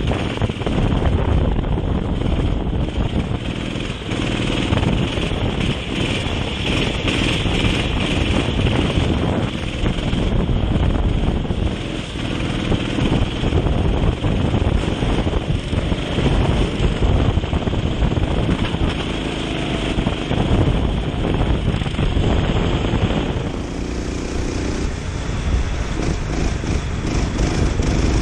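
Racing kart engine running hard and continuously at race pace on a wet track, easing off briefly a few times through corners.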